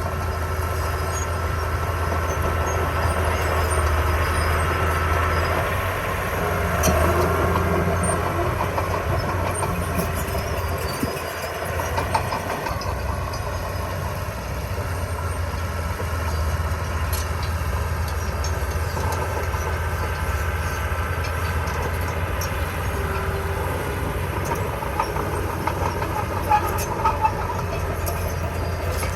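Heavy construction machinery's diesel engine running steadily under load, with a deep hum and a few short knocks near the end.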